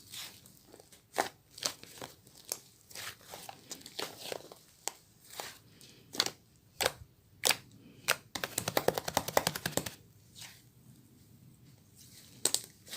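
Slime being pressed and stretched by hand, giving sharp pops and clicks, with a dense run of crackling lasting about two seconds just past the middle.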